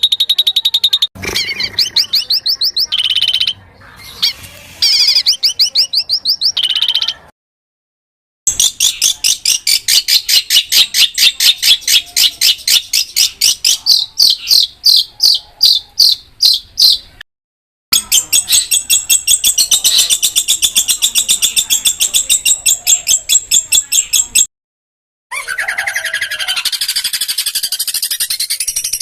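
Song of an African songbird: long rolls of sharp, rapidly repeated high notes, in several phrases that each cut off abruptly into silence.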